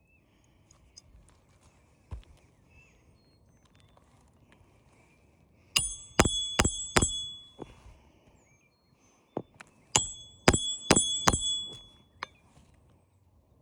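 Hammer driving roofing nails while a shingle is replaced: two runs of four sharp, ringing metallic strikes, about three a second, with a single duller knock early on.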